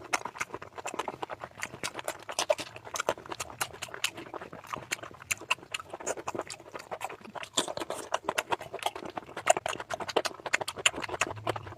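Close-miked wet chewing and mouth smacking while eating curry and rice: a dense, irregular run of sticky clicks and smacks.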